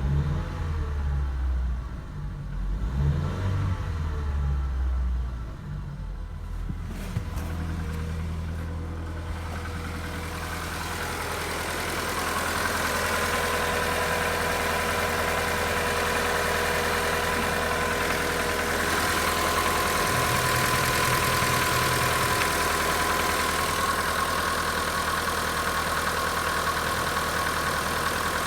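VW Golf 4's 1.4-litre AKQ four-cylinder petrol engine revved up and down a few times in the first several seconds, then running steadily at idle.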